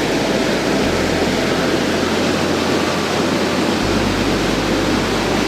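Rushing water running close by, a steady, loud hiss with no breaks.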